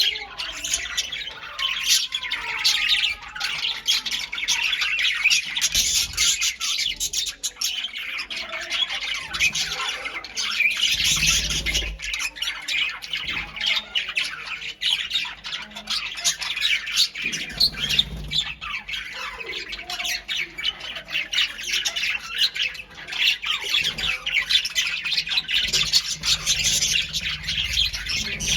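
Pet budgies and cockatiels chattering and squawking without a break, a dense stream of chirps and warbling calls, with a few low bumps now and then.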